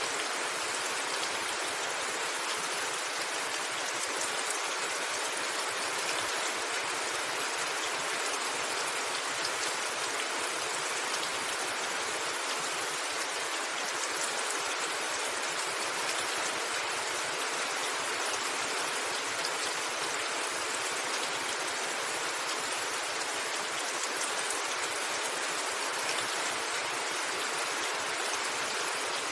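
Steady rain falling on a roof: an even hiss with scattered drop ticks and no thunder.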